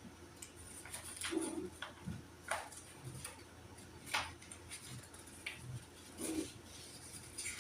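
Small household items being handled and sorted by hand: a few scattered clicks, taps and rustles a second or two apart.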